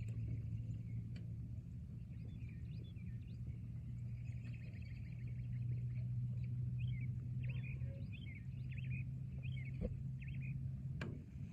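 Forest ambience: many small birds chirping and twittering in quick, high calls, thickest in the second half, over a steady low hum. A single sharp click sounds near the end.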